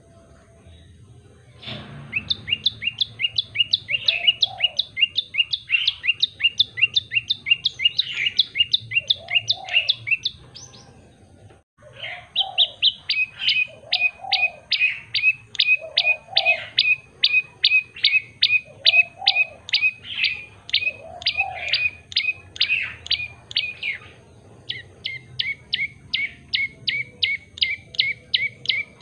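Tailorbird (prenjak lumut) singing in full voice: long runs of rapid, sharp repeated chirps, about four a second. The song breaks off briefly in the middle, and near the end the note shifts lower.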